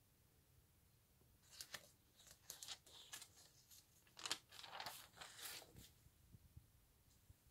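Stiff pages of a photo album being handled and turned: faint paper rustling and crinkling for a few seconds, with the loudest crackle about midway.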